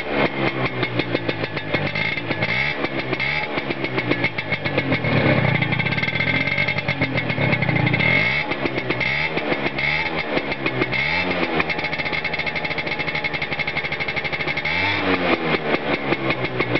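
Peugeot Vivacity scooter's two-stroke engine through a Giannelli aftermarket exhaust, revved in repeated blips that rise and fall back. It is held at higher revs for a few seconds in the middle, then blipped again near the end.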